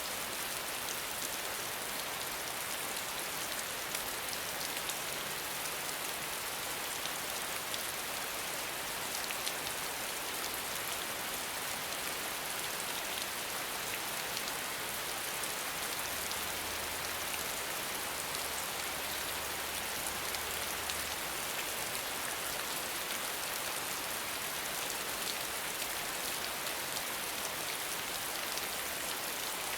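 Steady rain falling: an even hiss peppered with many small drop ticks.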